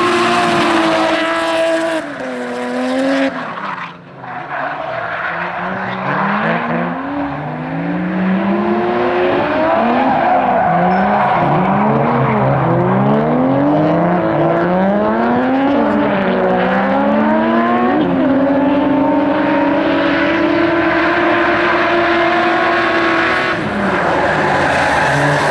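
Toyota Soarer's 1JZ straight-six engine revving hard while drifting, its pitch rising and falling again and again, then held high for a few seconds, with tyres squealing.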